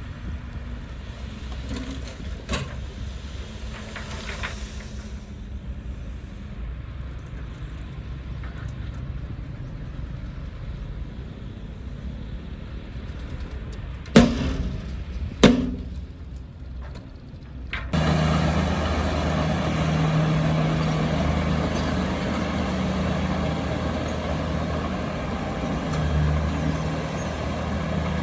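Heavy diesel earthmoving machinery running low and steady, with two sharp clanks about halfway through. About two-thirds of the way in the sound switches abruptly to a louder, steady engine drone.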